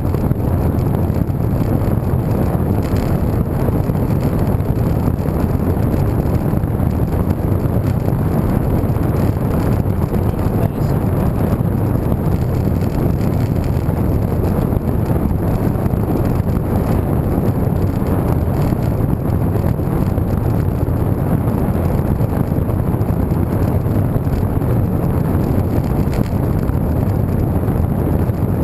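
Steady low rumble of wind buffeting the microphone of a camera riding on a moving bicycle.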